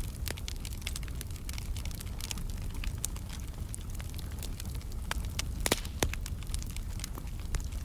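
Wood fire burning in a fireplace, crackling and popping steadily over a low rumble, with a couple of louder pops near the end.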